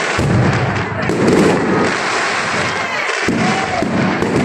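Fireworks going off in quick succession: a dense run of bangs and crackling, with a faint short whistle now and then.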